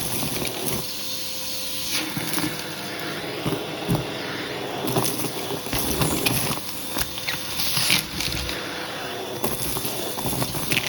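Hoover vacuum cleaner running steadily with a constant motor whine, its hand tool rustling and scratching over a shag rug as it picks up carpet powder.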